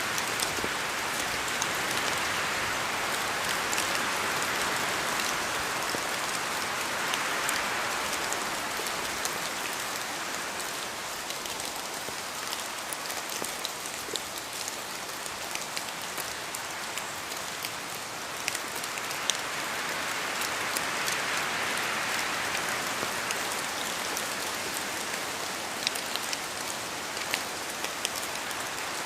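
Steady rain falling, an even hiss of rainfall with scattered sharper drop taps, swelling and easing gently in intensity.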